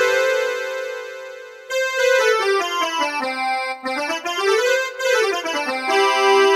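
Yamaha PSS-E30 portable keyboard playing: a held chord that fades out, then quick runs of single notes going up and down.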